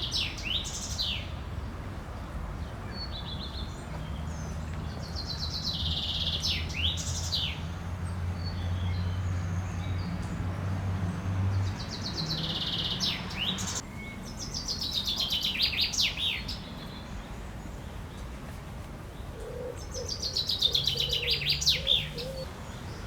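A songbird singing short phrases of fast trills that end in quick downward sweeps, a phrase every few seconds, about five in all. A faint low hum sounds underneath for a stretch in the middle.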